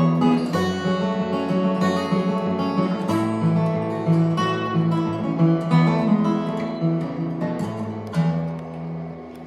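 Acoustic guitar playing the closing instrumental passage of a song, picked notes over held chords, dying away on a last ringing chord near the end.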